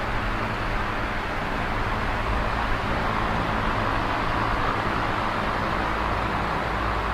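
Small oscillating electric fan running steadily: an even rush of air noise over a low motor hum.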